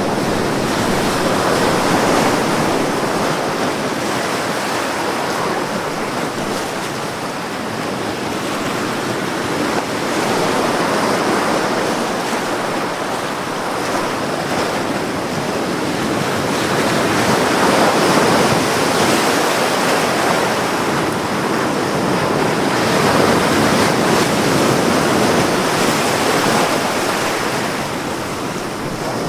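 Ocean waves breaking and washing up a beach, a steady rush of surf that swells and eases every few seconds.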